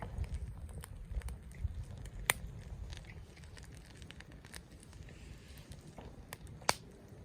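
Wood campfire crackling, with scattered sharp pops, the loudest about two seconds in and near the end, over a steady low rumble.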